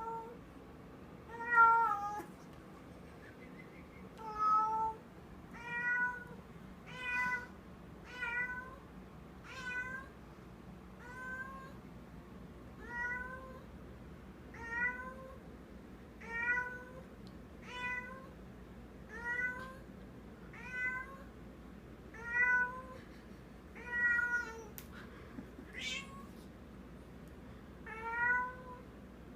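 Domestic cat calling over and over with a toy held in her mouth, treating it as real prey: short meow-like calls that rise and fall in pitch, about one every second and a half.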